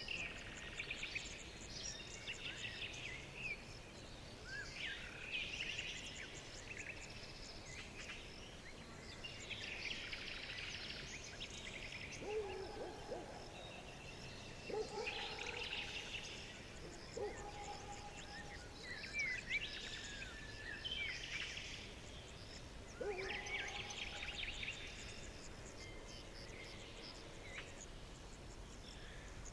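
Forest birdsong: several birds chirping and trilling on and off, with a few lower, shorter calls from another bird in the middle and near the end, over a faint steady hiss.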